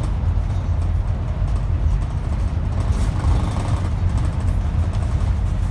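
Scania N270UD double-decker bus's five-cylinder diesel engine running with a steady low drone, heard from inside the bus.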